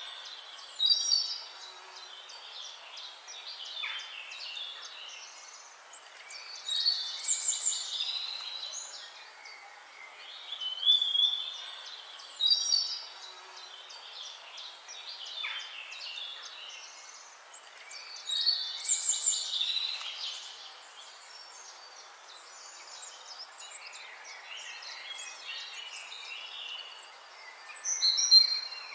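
Songbirds chirping and whistling in high, quick calls, with louder bursts every few seconds and quieter twittering between.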